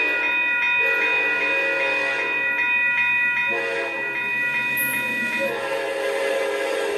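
Amtrak P42DC diesel locomotive's air horn blowing a long held chord of several notes, the lower notes changing pitch a couple of times partway through.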